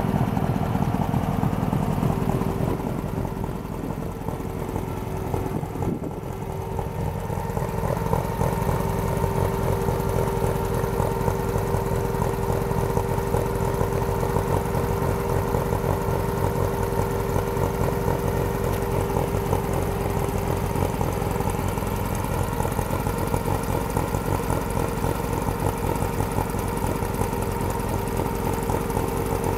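Meyers Manx dune buggy's engine idling steadily, with a steady whine over it from a few seconds in.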